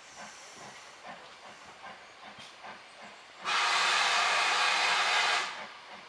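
Steam locomotive letting off steam: a loud hiss starts suddenly about halfway through, lasts about two seconds and cuts off.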